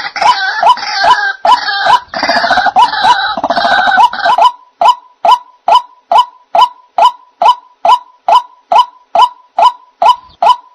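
White-breasted waterhen (ruak-ruak) calls played as a bird-trapping lure: a short note repeated evenly about two and a half times a second. For the first four seconds or so a harsher, overlapping chorus of calls runs over it, then the single repeated note carries on alone.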